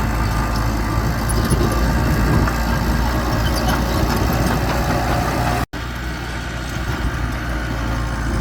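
Diesel engine of heavy earthmoving machinery running steadily at a low, even speed. The sound cuts out completely for an instant about five and a half seconds in, then carries on unchanged.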